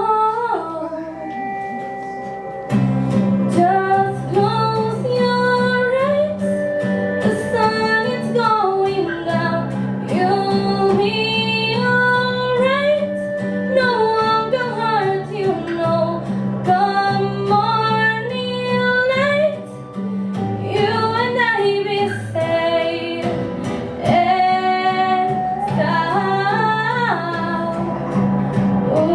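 A woman singing a slow melody live. She starts almost alone, and a steady instrumental accompaniment of held low chords comes in about three seconds in, with a guitar among the instruments.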